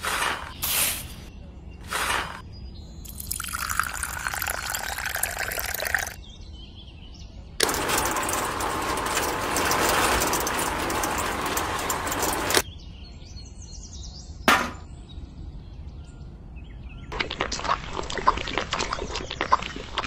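Spoonfuls of dry cement and sand tipped into the drum of a miniature model cement mixer, then a stretch of steady rushing noise. Near the end, wet cement slurry pours out of the tilted drum into a small bucket with a crackly splashing sound.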